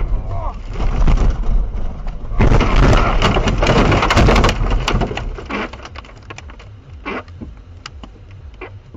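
Crunching and crackling of a car collision, with a low rumble and many sharp clicks and rattles. It is loudest from about two and a half to five seconds in, then dies away into scattered clicks.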